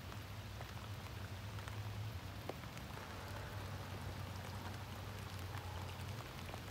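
Steady rain falling, with scattered faint drip ticks, over a low steady rumble.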